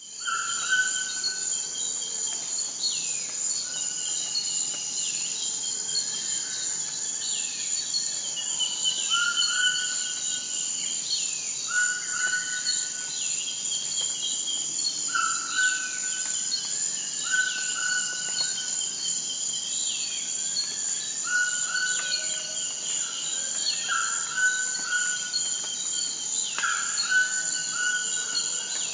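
Insects chirring steadily at a high pitch, with a bird repeating a short call every second or two and other falling chirps over it.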